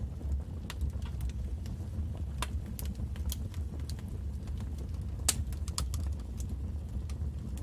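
Wood fire burning in a fireplace: irregular sharp crackles and pops over a steady low rumble, with one louder pop about five seconds in.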